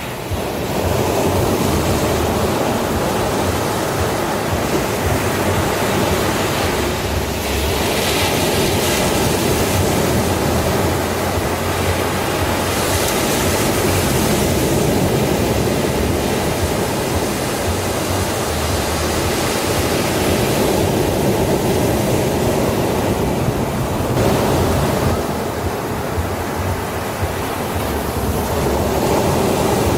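Sea waves breaking and washing on a beach: a continuous surf rush that swells louder and hissier several times as waves break.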